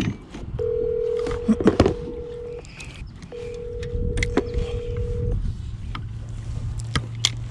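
Telephone ringback tone from a mobile phone as a call is placed: two steady rings of about two seconds each, with a short gap between, over scattered light knocks.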